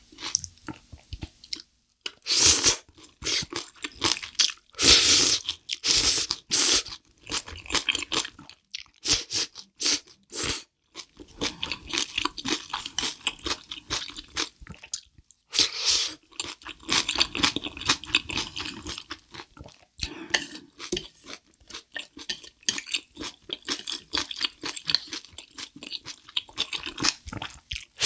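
Close-miked eating: loud crunchy bites and wet chewing of battered cream shrimp in black bean noodle sauce, the bites coming in irregular clusters.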